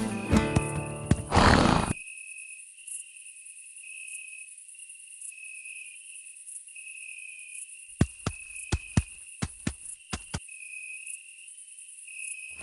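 Background music that ends in a swelling whoosh about two seconds in, then a steady high chirring of night insects, with a quick run of about a dozen sharp knocks from about eight to ten seconds in.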